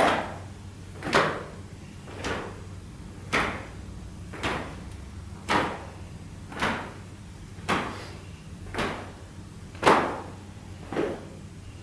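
A steady series of sharp thuds or slaps, about one a second, eleven in a row, the one near the end of the loudest.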